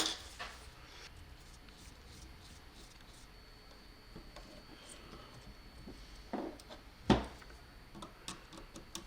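Quiet handling of small parts on a workbench: faint clicks and rubbing, with two soft knocks a little after the middle.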